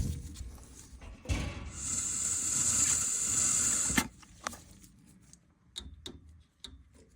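A steady hiss of air blown through a furnace tube, starting about a second in and lasting about two and a half seconds, then cutting off with a click; light clicks of handling follow.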